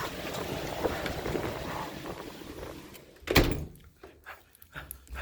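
Storm wind rushing, then a single loud thump a little over three seconds in, after which the wind noise is gone.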